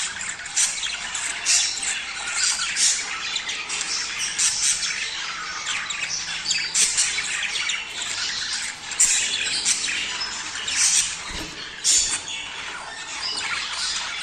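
Budgerigars chattering and warbling without a break, with a loud squawk cutting in about every second.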